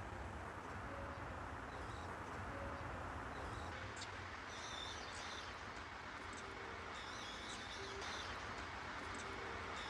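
Small birds chirping in short repeated series, starting about four seconds in, over a steady low outdoor rumble.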